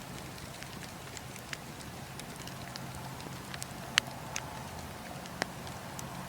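Campfire burning: a steady low hiss with scattered sharp crackles and pops from the burning wood, the loudest pop about four seconds in.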